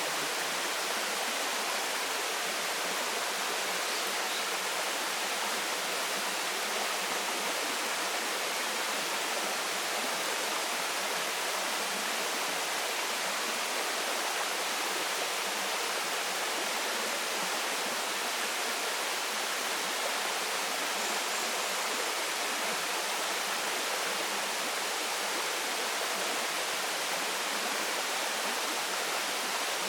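Waterfall and its stream splashing, a steady, even rush of water with no change in level.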